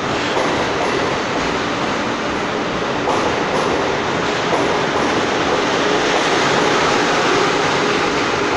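Passenger train cars passing at speed close by: a steady loud rush and rumble of wheels on rail, with a few sharp clacks over rail joints.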